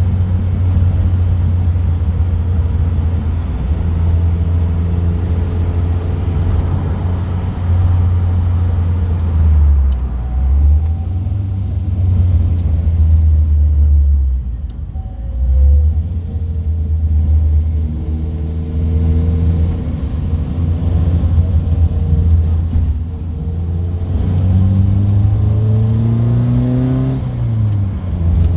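Car engine and road noise heard from inside the moving car, a steady low drone. The engine note dips briefly twice in the middle, then rises in pitch a few seconds before the end and drops away.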